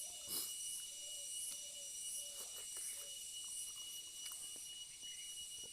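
Faint, sporadic chewing and mouth sounds of someone eating boiled vegetables: small soft clicks and brief wet squeaks. Under them runs a steady high hiss with a constant thin whine.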